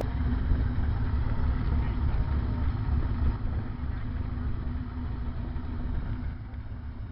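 Engine of a wedge-shaped TVR convertible idling steadily with a deep rumble, easing slightly quieter over the second half.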